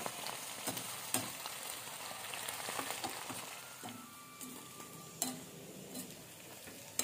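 Dried sprats sizzling as they fry in hot oil in a metal wok: a steady hiss with scattered crackles and pops, easing off a little in the second half.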